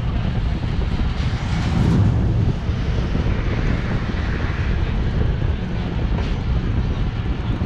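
Bangladesh Railway local train running: a steady low noise, loudest in the bass, swelling briefly about two seconds in.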